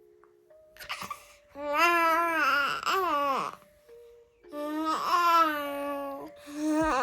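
Baby babbling in three long, high-pitched, wavering vocal sounds, over soft background music.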